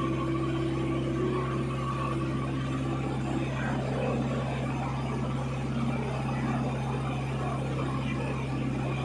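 Boat engine running steadily, a constant low hum that holds the same pitch throughout.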